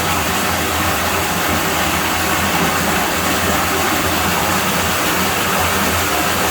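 Steady rush of running water at a pool, an even noise with a low hum underneath and no change throughout.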